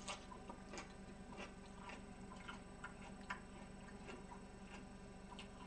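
Faint close-up chewing: small mouth clicks, irregular and roughly every half second, as a mouthful of vegetable salad is chewed.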